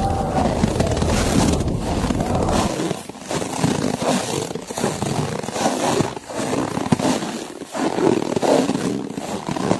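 Blizzard wind blowing in gusts, with snow crunching. The deep wind rumble drops away about a quarter of the way in, leaving uneven crunching pulses over the wind.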